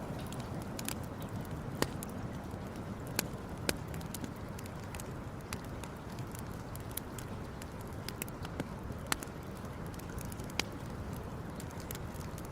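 Wood campfire crackling: irregular sharp pops and snaps, a few louder ones, over a steady low rush.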